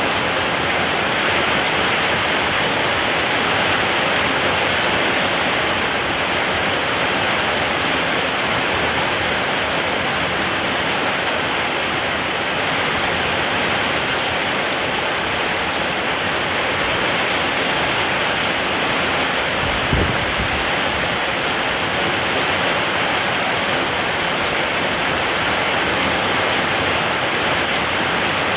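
Steady, heavy rain falling as a dense, even hiss. A single brief low thump comes about twenty seconds in.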